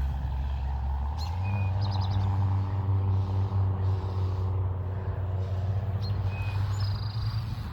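An engine running steadily with a low hum, its pitch stepping up about a second in, with a few short bird chirps over it.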